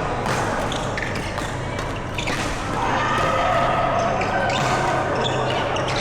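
Badminton play in an echoing indoor hall: sharp racket hits on the shuttlecock at uneven intervals, mixed with footwork on the court floor.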